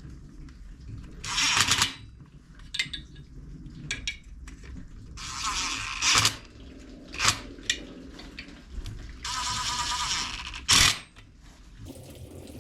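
Metal hand tools and sockets clinking and rattling while being sorted through. Three rushing scrapes of about a second each are heard, with scattered sharp clicks between them.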